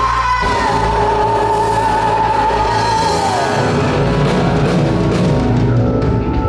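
Live blues-rock band playing loudly under a female singer holding one long high note that slides down about three seconds in, at the closing climax of a slow blues.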